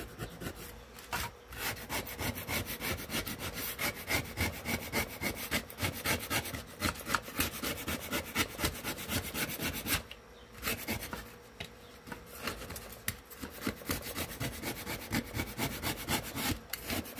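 Quick, repeated hand scraping and rubbing on a speaker cabinet's front board, stripping off leftover carpet and glue residue so new spray glue will stick. The strokes pause briefly about ten seconds in.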